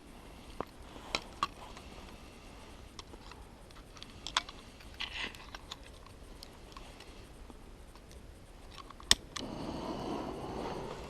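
Light clicks and taps of small things being handled, then a sharp click about nine seconds in followed at once by a steady rushing hiss: a flame being lit to start a fire.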